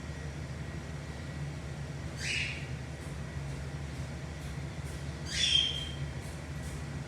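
Cockatiel calling twice, two short harsh squawks about three seconds apart, the second louder, over a steady low hum.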